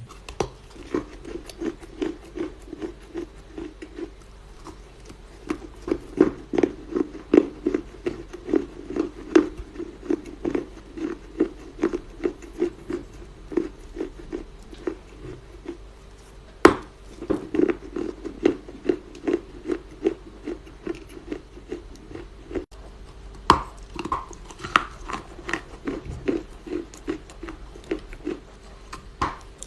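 Chinese loess clay crunching softly in a steady run of crunches, about two to three a second, with a sharper snap a little past halfway.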